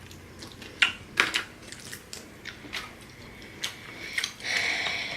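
Crab legs being eaten: several short sharp cracks and clicks of shell being broken, with chewing, and a longer soft stretch of chewing and mouth noise near the end.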